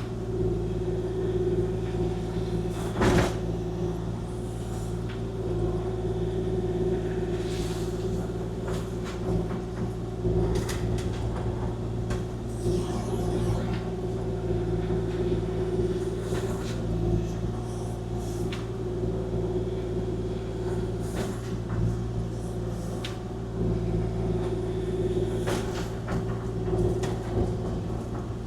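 Kubota KX040-4 mini excavator's diesel engine running steadily under hydraulic load while it digs, with scattered clunks and knocks from the machine working, the loudest about three seconds in.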